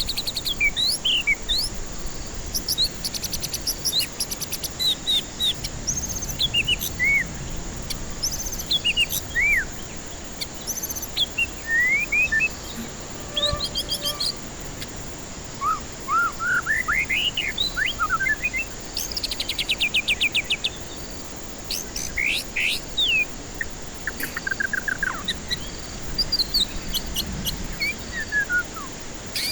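White-rumped shama (murai batu) singing a varied song of clear whistled notes that sweep up and down, broken by fast rattling trills, over a steady high hiss.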